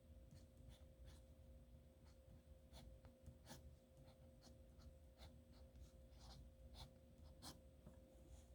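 Faint scratching of a nib pen on paper in short, irregular strokes, as handwriting or a signature is written, over a faint steady hum.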